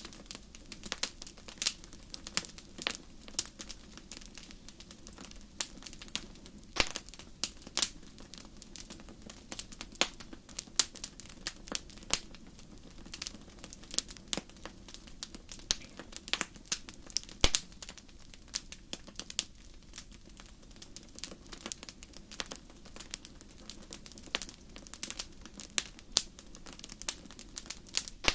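Wood fire crackling: irregular sharp pops and snaps, several a second, over a faint low steady rush of flame.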